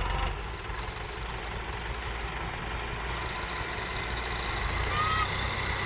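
Heavy diesel engine idling steadily, with a thin, steady high-pitched tone running above the rumble.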